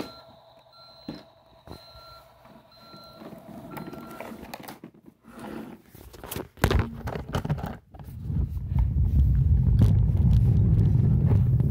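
Toy garbage truck's electronic sound effects: a run of evenly spaced reversing-style beeps, about one and a half a second, for the first few seconds. After a knock midway, a loud low rumble fills the last few seconds.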